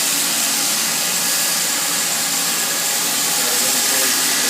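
Steady wind rush over the microphone while riding a Kawasaki KLR 650, with the single-cylinder engine's running faint beneath it.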